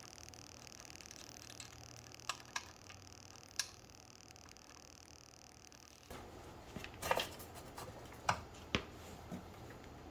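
Scattered sharp clicks and knocks from handling or tool work: a few single clicks, then a busier cluster in the second half, over a faint steady high-pitched hum.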